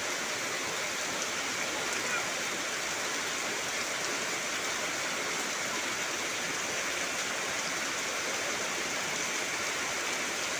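Heavy rain falling steadily. About two seconds in there is a faint short chirp.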